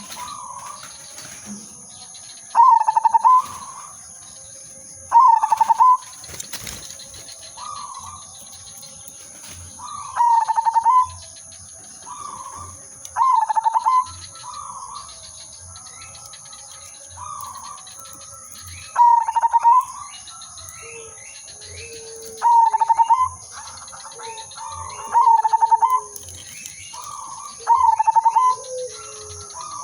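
Zebra dove (perkutut) singing its rolling, trilled coo over and over, a loud phrase about every three seconds with softer coos in between.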